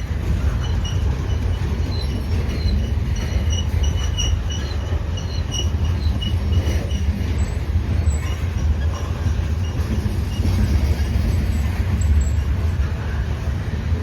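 Loaded freight cars of a train being shoved in reverse rolling past, a steady heavy rumble of wheels on rail with short, scattered wheel squeals mostly in the first half.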